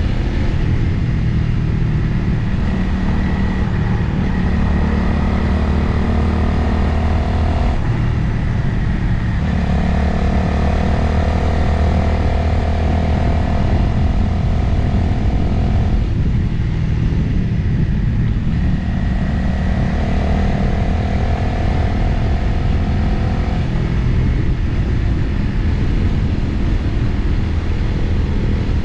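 Motorcycle engine running under way with wind rushing over the microphone; the engine note changes pitch in steps and briefly falls away a few times, as with throttle and gear changes.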